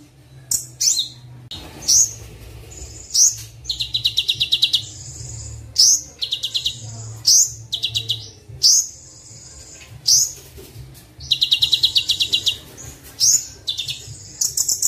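Kolibri wulung sunbird song: sharp high chirps alternating with fast, rattling trills of evenly spaced notes, several times, over a steady low hum. This is a masteran recording whose song is packed with varied phrases.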